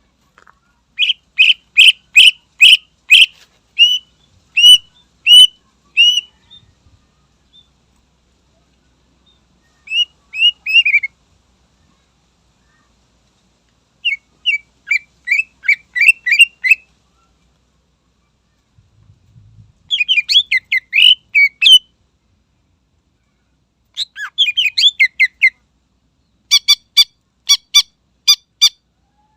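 Cucak ijo (green leafbird) singing in loud bursts of rapid, sharp repeated notes, about six phrases with short pauses between them.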